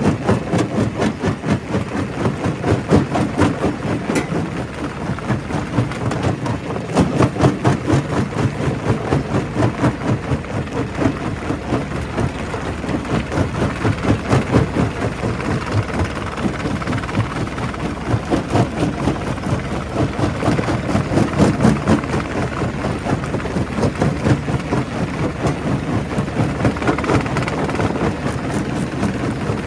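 Quarry primary rock crusher working: a continuous heavy rumble with a rapid, irregular clatter of rock knocking and breaking.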